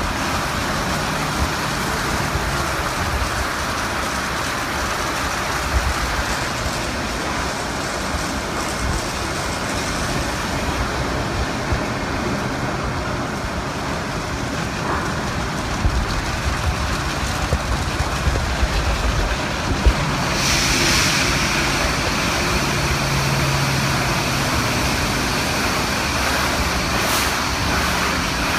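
Automatic car wash machinery running around a car: a steady rush of water and motors with low humming and a few knocks. About twenty seconds in, a louder hiss of spray sets in and holds.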